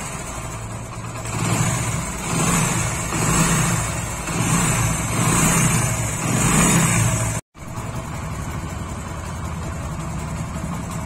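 Hero Honda Splendor's single-cylinder four-stroke engine running after its magneto starting coil was replaced to cure a weak spark. It is revved up and down about four times, then idles steadily after a brief break.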